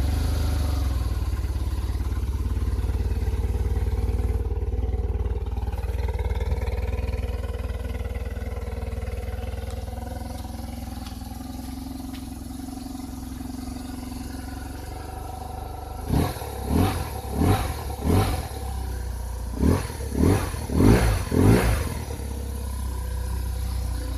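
BMW R 1100 RT's air/oil-cooled boxer twin idling cold on choke, a steady low hum. About two-thirds of the way through, the throttle is blipped about eight times in quick succession, each rev rising and falling back to idle.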